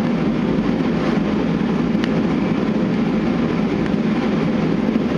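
Steady low drone of a running machine, unchanged throughout, with one faint click about two seconds in.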